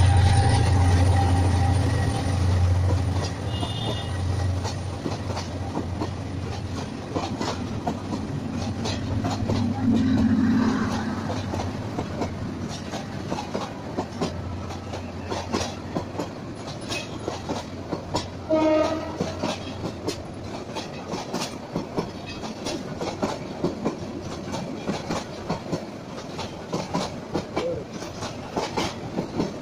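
A Bangladesh Railway diesel-hauled passenger train passing beneath. A heavy low rumble as the locomotive goes under fades after the first few seconds, then the coaches roll by with a long, uneven clatter of wheels over rail joints. A brief horn toot sounds about two-thirds of the way through.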